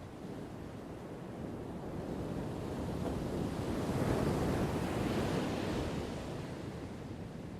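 Ocean surf: the rush of a wave swells, peaks about four to five seconds in, then fades back.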